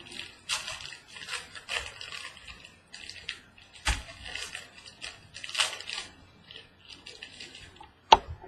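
Hands opening a sealed trading-card box: packaging crinkling and cardboard rustling in short bursts, with a sharp knock about four seconds in and a few loud snaps near the end.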